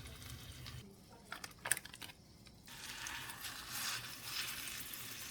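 Faint handling noises: a few light clicks about a second and a half in, with soft rustling over a low hiss.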